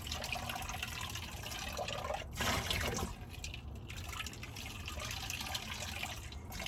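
Water running and splashing during hand dishwashing, a steady trickle that swells briefly about two and a half seconds in.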